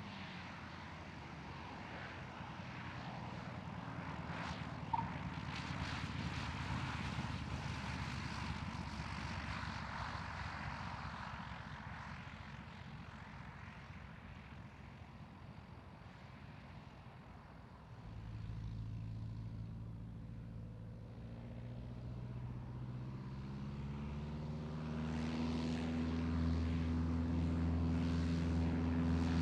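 Light propeller aircraft engines. One plane's engine swells over the first several seconds and then fades away. About two-thirds of the way through, a second piston-engine propeller plane comes in with a steady low drone that grows louder toward the end.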